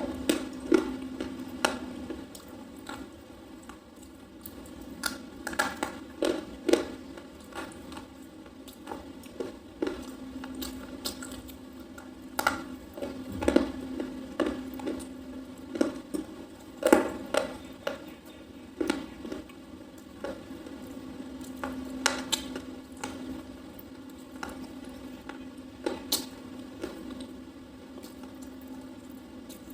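Close-up biting and chewing of a soft, crunchy slate pencil, with irregular sharp crunches every second or so.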